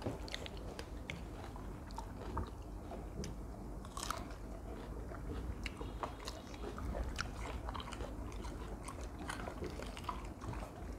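Soft, scattered biting and chewing of oriental melon (dưa lê) pieces by Rottweilers and a man eating alongside them: a string of small sharp crunches and clicks, with a louder crunch about four seconds in.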